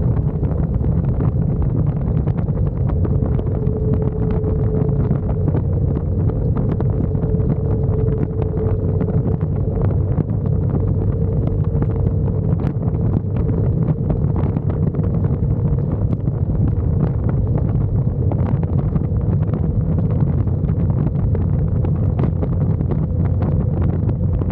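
Steady wind buffeting on the microphone of a moving motorcycle, with road and engine noise and a faint steady hum underneath.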